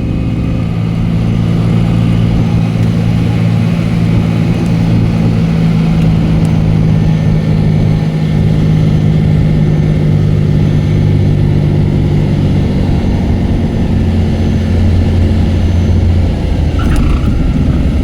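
Cessna 210K's six-cylinder piston engine and propeller droning steadily, as heard inside the cabin, with a slight change in tone about fourteen seconds in.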